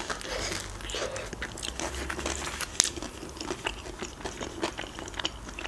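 A bite into a shawarma wrap, then chewing close to the microphone: soft crunches and many small wet mouth clicks, with one sharper click a little under three seconds in.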